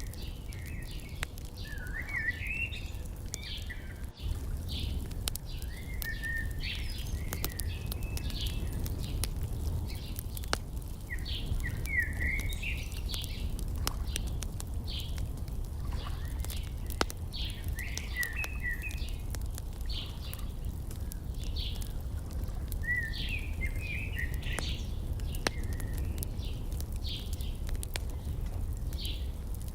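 Birds calling in short chirping phrases about every six seconds, over frequent small sharp crackles of a wood fire and a steady low rumble.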